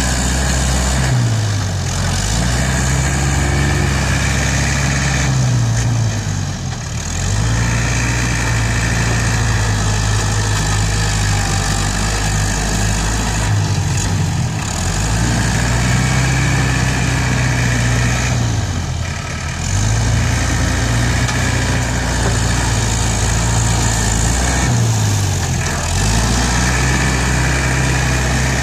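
ISEKI NT554 tractor's diesel engine running hard, its pitch sagging and recovering about every six seconds as it takes and sheds load pushing soil.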